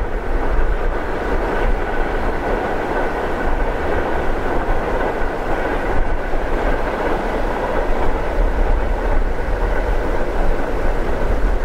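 Freight train's open wagons rolling along the track, a steady rumble of wheels on rail with a deep, uneven low rumble beneath.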